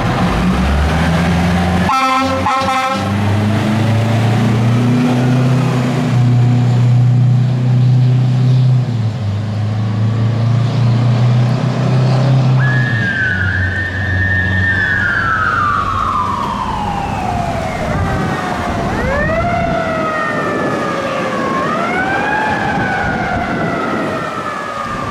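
A fire truck's engine revs as it pulls away, with a short horn blast about two seconds in. From about halfway a siren sounds, holding high and then winding down slowly, then rising and falling twice.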